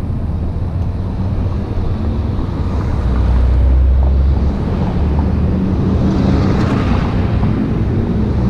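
Goped scooter's small two-stroke engine running under way, with heavy wind buffeting the microphone; it gets louder about three seconds in.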